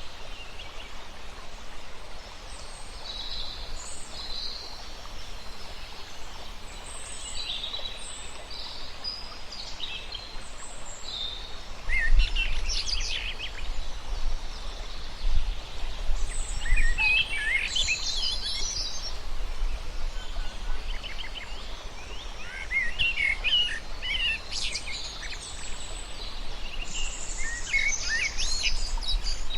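Several wild birds chirping and singing in short, varied phrases over steady outdoor background noise, with the calls coming louder and busier from about the middle on.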